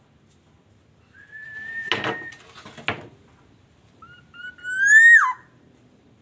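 Black-naped oriole giving two clear, fluty whistles: a level whistle, then a louder one that rises and drops sharply at its end. Two sharp clicks come during the first whistle.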